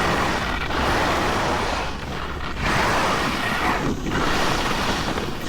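Rushing noise of skiing downhill: skis sliding and scraping on snow, mixed with wind on the microphone, swelling and easing every second or two as the turns go.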